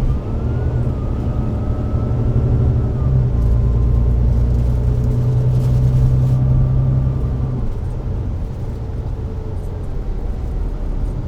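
Volvo B9TL double-decker bus's Volvo D9B six-cylinder diesel and Voith DIWA automatic gearbox pulling under load: a steady drone with a thin whine above it. The engine eases off about seven and a half seconds in.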